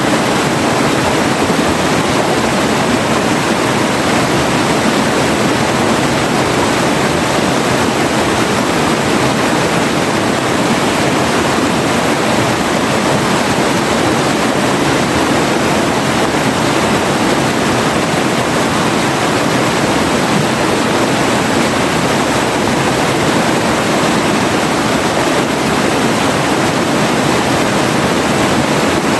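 A forest river flowing: a steady, unbroken rush of running water.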